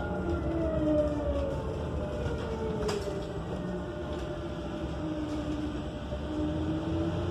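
Whine of a Proterra Catalyst BE35 electric bus's UQM HD220 traction motor, heard inside the cabin over road rumble. Its pitch falls over the first three seconds as the bus slows, stays low, and starts to rise again near the end as it picks up speed. A single click about three seconds in.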